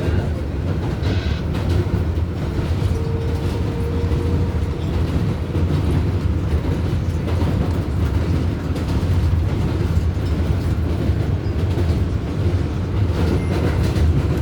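R188 subway train running along the track, heard from inside the car: a steady rumble of wheels on rail. A faint whine comes in about three seconds in and fades a few seconds later.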